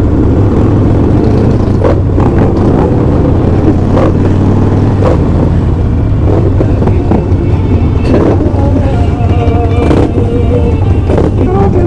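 Motorcycle engine running steadily at cruising speed, with wind rushing past, heard from a bike on the move.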